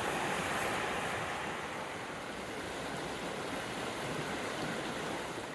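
Small stream rushing and splashing over rocks, a steady rush of water.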